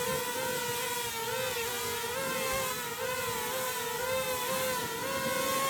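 DJI Flip drone's propellers whining in flight, a steady hum with higher tones wavering up and down as the motors adjust to hold it steady in wind.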